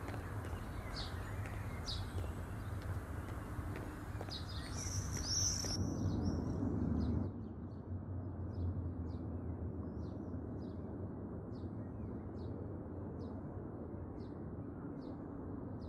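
A small bird chirping single short notes over and over, about one a second, over a steady low background hum. A brief louder noise comes about five seconds in.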